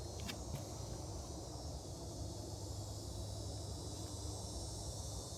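Quiet outdoor background of insects chirping high over a steady low hum, with a few faint clicks in the first second.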